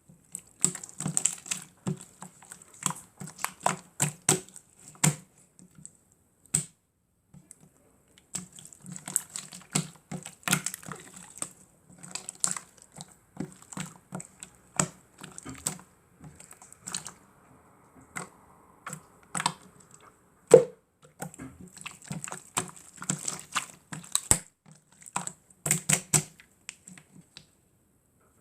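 Hands squeezing and pressing slime, making rapid irregular sticky clicks and pops, with a pause of about two seconds roughly a quarter of the way in.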